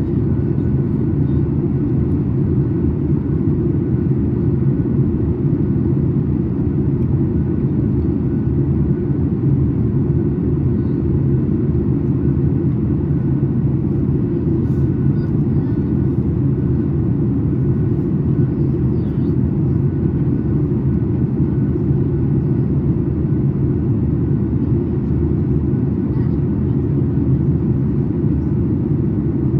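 Steady cabin rumble of a Boeing 737 MAX 8 airliner in flight, heard from a window seat: the low, even noise of its CFM LEAP-1B engines and the airflow over the fuselage.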